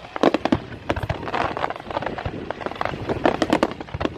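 Fireworks bursting overhead: a rapid, irregular run of bangs and crackles.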